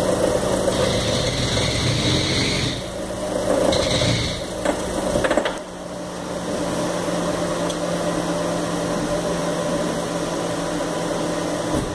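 Fiat Fire Economy engine loaded against the handbrake, making the metal-on-metal knocking noise the owner hears on hills and downshifts, which his mechanic blames on bad, adulterated gasoline. The engine stalls about five and a half seconds in, leaving a steady hum.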